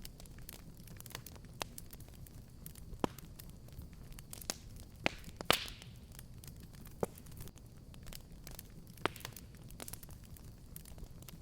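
Fireplace fire crackling, with scattered sharp pops over a low steady rumble and one louder pop about halfway through.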